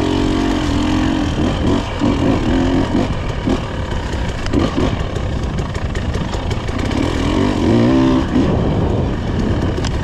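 Off-road motorcycle engine revving up and down as it rides a rough dirt trail, the pitch rising and falling several times, with the strongest revving near the end, over a steady low rumble.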